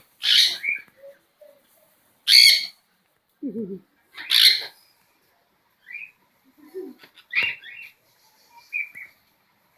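Parrots screeching: three loud, harsh squawks about two seconds apart, followed by quieter, shorter calls.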